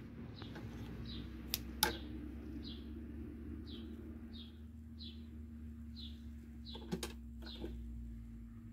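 A small bird repeating a short falling chirp roughly once a second over a faint steady hum, with a few light clicks from handling the fabric at the sewing machine about two seconds in and again near the end.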